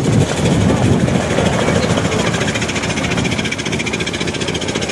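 Veteran car's engine running with a fast, even chugging beat as the car drives past close by and pulls away, growing fainter toward the end.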